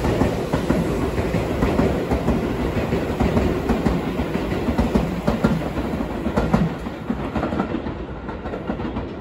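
A Seibu electric commuter train running away on the adjacent track, its wheels rumbling and clattering over rail joints and points. The sound fades over the last couple of seconds as the train draws off.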